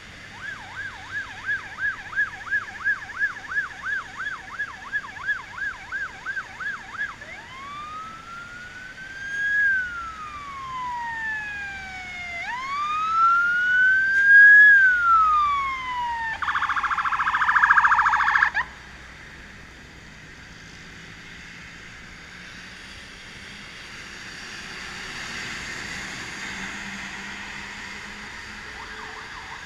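An electronic siren: a fast yelp of about three to four cycles a second, then slow rising-and-falling wails, then a harsh buzzing horn blast of about two seconds, after which it falls away to a quieter background.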